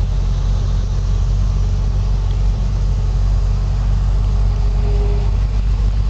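Pickup truck driving, heard from its open bed: a steady low rumble of engine and road noise.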